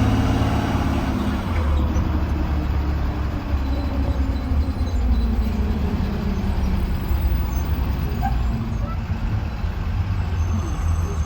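School bus (Blue Bird Vision) running down the road, heard from inside: a steady low engine rumble with road noise. A stronger engine note in the first second or two eases off into steady running.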